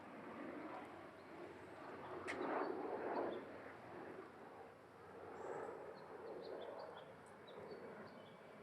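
Quiet outdoor ambience: soft rushing swells of background noise, with faint, scattered bird chirps and a single light click.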